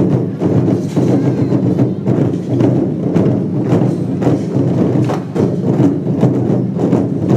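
Lion dance percussion: drums struck in continuous, rapid beats.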